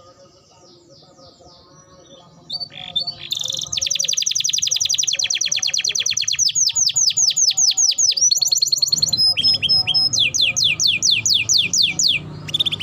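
Domestic canary singing. Near the start it is quieter, with a few short notes. Then comes a long, fast roll of rapidly repeated high notes, followed by a series of slower notes that each sweep downward.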